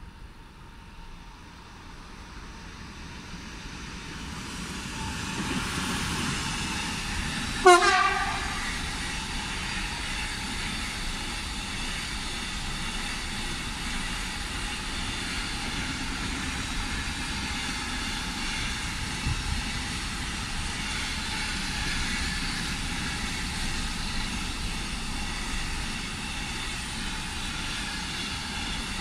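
A DB Cargo Siemens Vectron electric locomotive approaches with an intermodal container train and gives one short, loud horn blast about eight seconds in. The container wagons then roll past with a steady rolling noise.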